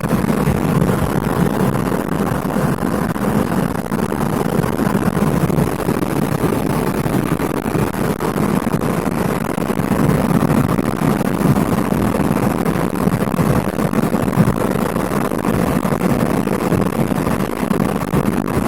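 Lada Priora's 1.6-litre 16-valve four-cylinder engine (VAZ-21126) running steadily under load while the car drives, mixed with road noise, heard from inside the cabin. The exhaust has a short four-into-one manifold and a straight insert in place of the catalytic converter.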